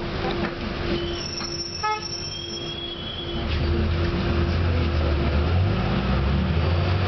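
Tram heard from inside the car: a steady electrical hum with thin, high-pitched squeals in the first half and a short pitched blip about two seconds in, then a low rumble that grows louder about three and a half seconds in.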